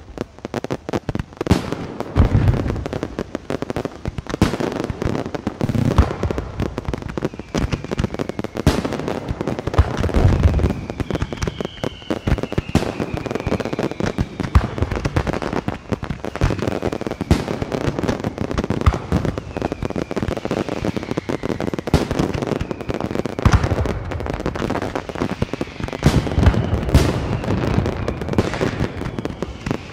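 Many fireworks and firecrackers going off at once: a near-continuous crackle of sharp bangs with deeper booms every few seconds, and several whistles that fall in pitch.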